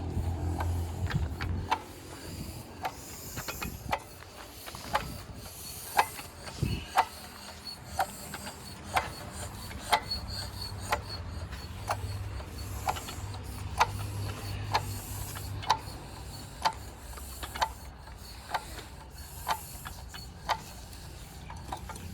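Stationary engine running: a loud low engine note drops away about two seconds in, leaving a quieter low hum with a sharp click about once a second.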